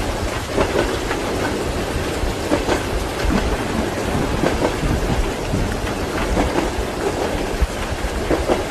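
Steady rain mixed with the clickety-clack of train wheels over rail joints and a low rumble of the moving carriage.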